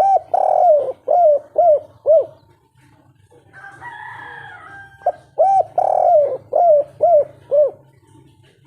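Spotted dove (tekukur) singing its 'kuk 3' cooing song twice: each phrase is a short coo, a drawn-out coo, then three short coos.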